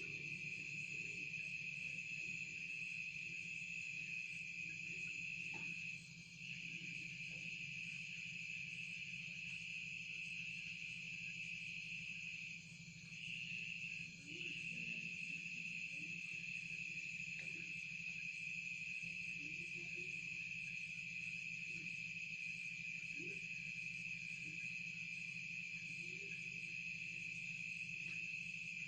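Crickets chirring in a continuous high-pitched chorus that drops out briefly a few times, over a steady low hum.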